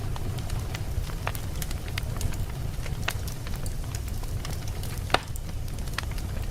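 Campfire crackling: irregular sharp pops and snaps over a steady low rumble, with one louder pop about five seconds in.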